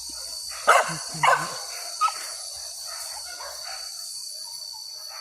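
Hunting dog barking: two loud barks close together about a second in, then a shorter one near two seconds in.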